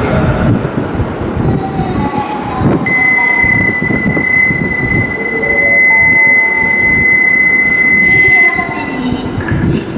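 Joetsu Shinkansen train running along the platform: a steady rumble of wheels and running gear, with a steady high-pitched whine from about three seconds in until near the end. Motor tones step upward in pitch in the second half.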